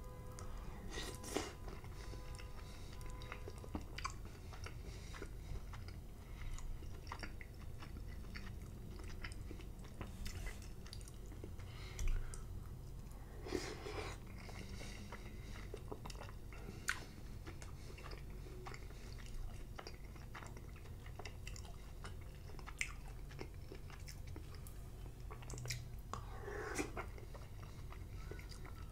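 Close-miked mouth sounds of a person chewing slimy cooked spinach, with scattered clicks and smacks as the mouth works the greens.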